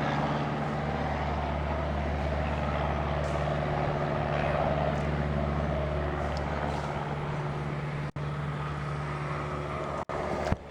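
A steady, low mechanical drone, like an engine or motor running nearby, holding one pitch throughout. It cuts out briefly twice near the end.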